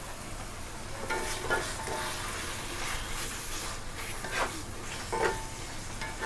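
Pork frying in panang curry paste in a pan, sizzling, with a spatula stirring and scraping across the pan in a few strokes. The sizzle grows louder about a second in.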